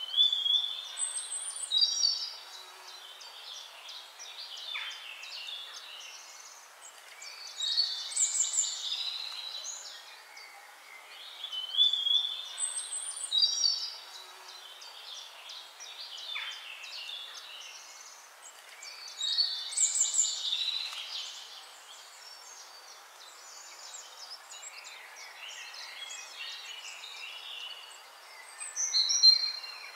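Songbird singing: bursts of high chirps and trills every six to eight seconds, with softer chirping between, over a faint hiss.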